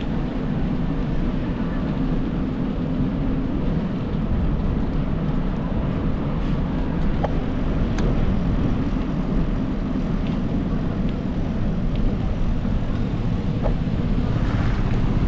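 Steady low rumble of wind and rolling road noise picked up by a camera riding along on a bicycle, with a few faint clicks.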